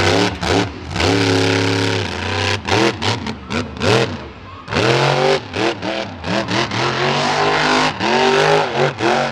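Monster truck engine revving hard and repeatedly, its pitch rising and falling with quick throttle stabs and several sudden cut-offs.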